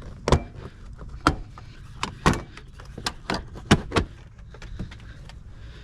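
Interior trim panel being worked loose by hand: a run of about eight sharp clicks and knocks over four seconds, then it settles.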